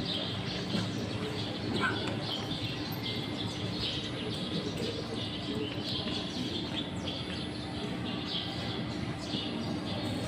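Small birds chirping in quick, overlapping bursts, over a low murmur from the gathered crowd.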